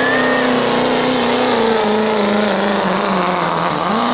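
Turbocharged diesel pickup engine at full throttle pulling a weight sled. Its pitch sags steadily for about four seconds, then climbs again right at the end.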